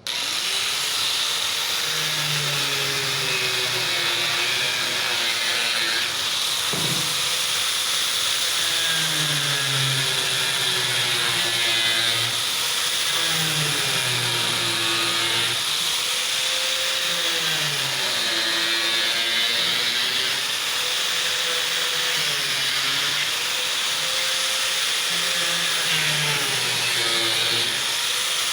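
Small electric exhaust fan switched on and running, a steady rush of blown air with a faint hum that slowly rises and falls in pitch. The fan is blowing up through a tube to make silicone paper flutter like flames.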